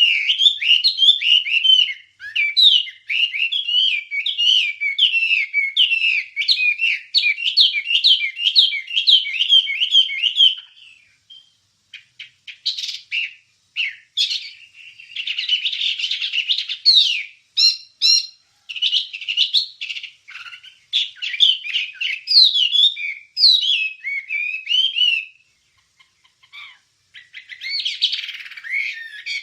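A wambie, the songbird that Indonesian bird keepers use as a master song for training, singing long runs of rapid, high chirping warbles. It breaks into short scattered notes about eleven seconds in, and falls silent briefly near the end before resuming.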